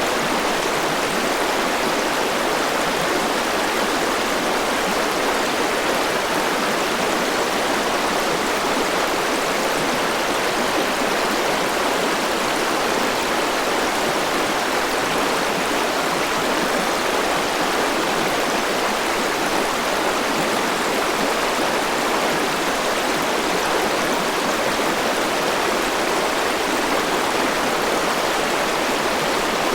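Forest river rushing steadily over rocks: a constant, even wash of flowing water.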